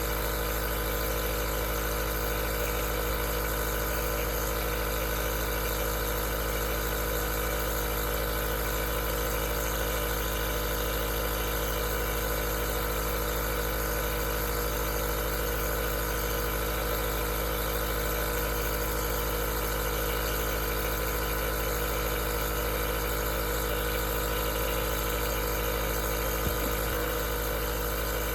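Aerosol nebulizer running steadily: an even motor hum with a layer of hiss, unchanging throughout.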